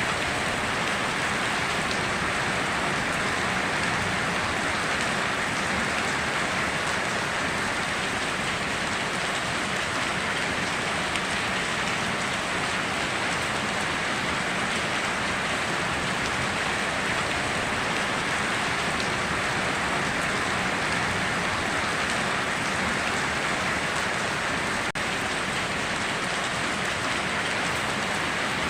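Heavy rain falling steadily, a dense even patter with no let-up and no thunder.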